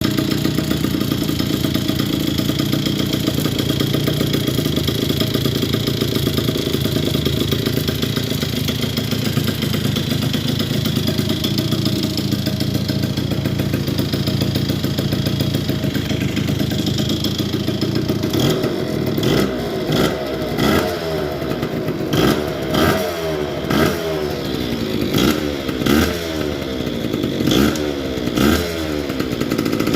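Yamaha Chappy moped's two-stroke engine with a Polini 65cc cylinder kit running after a first start. It holds a steady note for about eighteen seconds, then the throttle is blipped about once a second, the pitch rising and falling with each rev.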